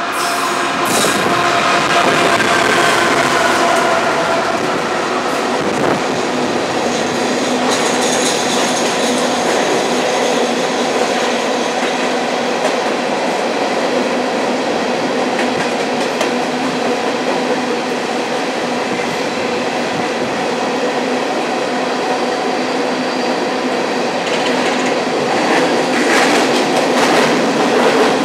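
Union Pacific diesel locomotives passing close by, their engine drone falling slightly in pitch over the first few seconds. Then a long string of loaded coal cars rolls past with steady wheel-on-rail noise, clickety-clack over the rail joints and faint high wheel squeals.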